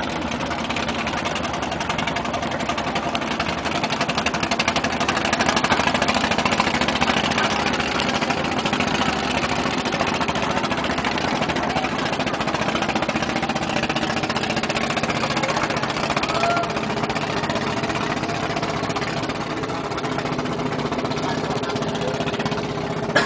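Large engine of a wooden ulin-wood tugboat running steadily at a low, even speed, swelling slightly a few seconds in.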